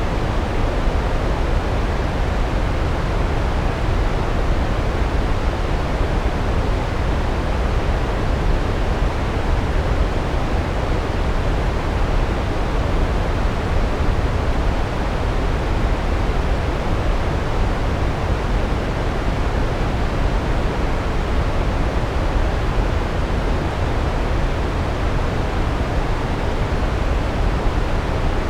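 Large waterfall: a steady, deep rush of falling water with no breaks or changes.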